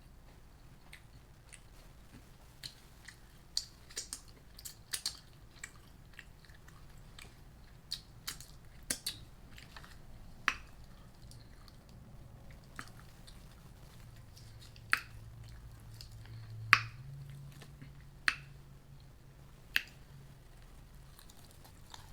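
Close-up mouth sounds of someone eating: chewing with irregular sharp crunches and wet clicks, a few louder crunches in the second half.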